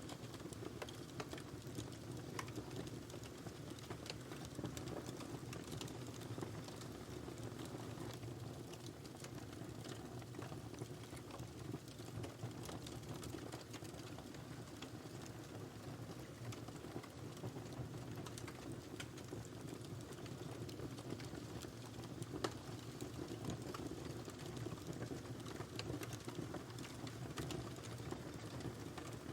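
Wood fire burning in a fireplace: a steady low rumble of flames with frequent small, irregular crackles and pops, one pop a little louder about two-thirds of the way through.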